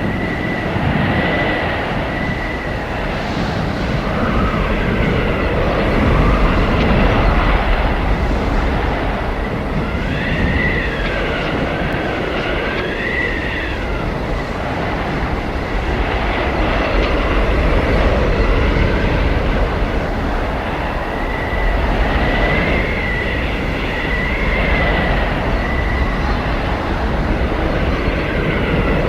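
Blizzard wind blowing in a steady, gusting rush with a deep rumble underneath, and high whistling howls that rise and fall, most clearly around a third of the way in and again after about two thirds.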